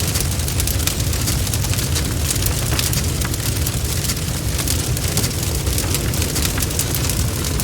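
Bonfire burning: a steady low rumble of flame with many quick, irregular crackles and pops from the burning wood.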